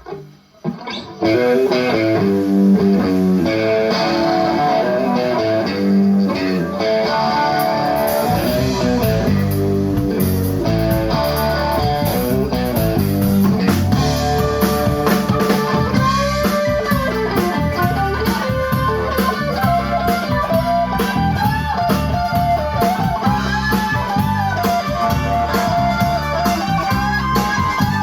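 Live band music with electric guitar and bass, starting about a second in after a brief drop-out. Cymbals come in around eight seconds in, and a bending melodic lead line runs over the band in the second half.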